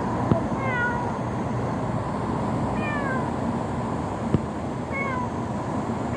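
Kitten mewing: three short, high calls about two seconds apart, each falling in pitch. Two sharp taps or clicks are heard between them.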